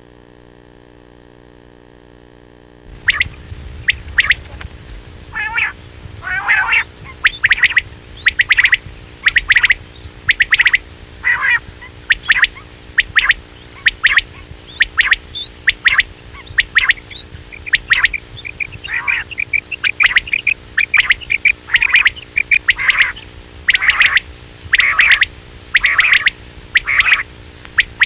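Quail calls used as a hunting lure: short sharp notes repeated one or two a second, with a few longer trilled notes among them, starting about three seconds in over a low steady hum.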